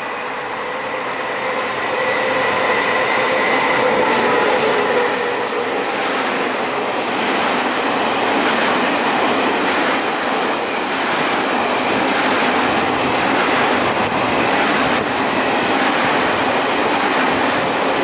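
A Taiwan Railways train running past on the track. The sound builds over the first two seconds into a steady loud rush of wheels on rail, with faint held high tones above it.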